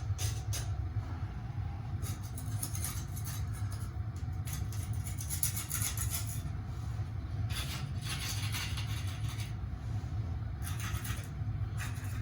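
A steady low machine hum, with bursts of high hissy noise about a second long that come and go several times.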